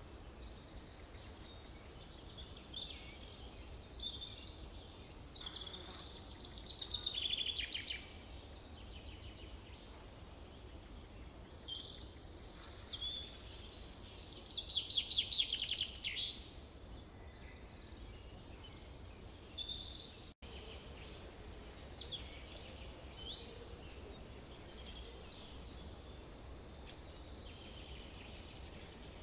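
Forest birds singing and calling, with two louder rapid trilling songs about six and fourteen seconds in, over a low steady rumble. The sound drops out for an instant about twenty seconds in.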